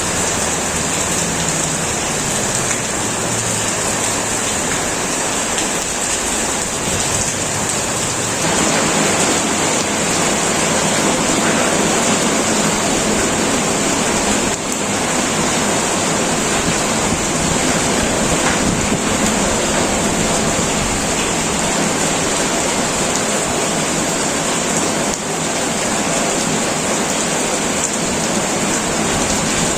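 Heavy rain pelting a tin roof in a steady, dense hiss, growing slightly fuller and louder about eight seconds in.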